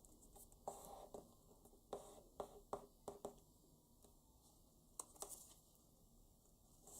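A paper banknote being folded by hand: a series of short crinkles and creases, bunched in the first few seconds and again about five seconds in.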